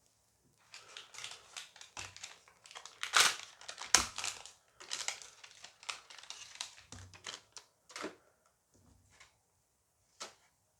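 Dice Masters booster pack wrapper being crinkled and torn open by hand, with a run of crackling that is loudest about three and four seconds in. A short sharp click comes near the end.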